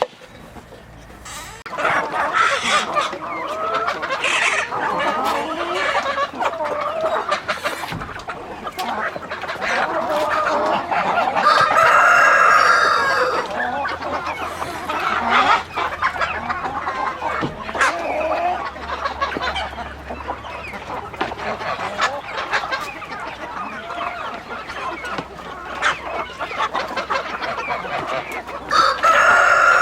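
A flock of chickens clucking continuously. A louder, drawn-out call rises above them about twelve seconds in, and another comes near the end.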